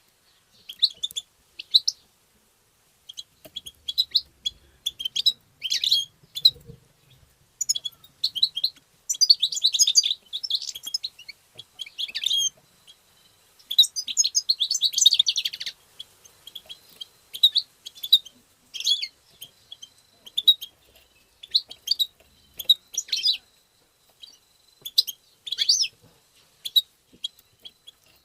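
European goldfinch singing and twittering: quick liquid chirps in short bursts, with two longer, denser song phrases a few seconds apart.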